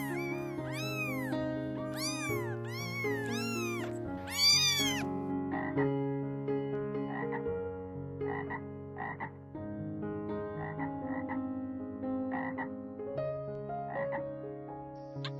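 A cat meowing about six times, each call rising and falling in pitch, then from about five seconds in a frog croaking in short calls roughly once a second.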